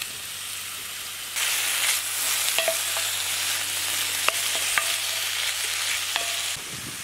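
Diced grouse breast and sliced onion sizzling in a hot cast iron skillet while being stirred. The sizzle grows louder about a second and a half in, with a few sharp knocks of the spatula against the pan that ring briefly, then drops back near the end.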